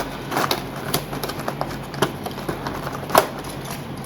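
Irregular small clicks and taps of diecast model parts and tools being handled and fitted together, with one sharper click about three seconds in.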